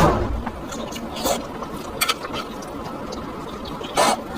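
Close-miked eating sounds: wet chewing and slurping in several short bursts, the loudest at the very start and again about four seconds in.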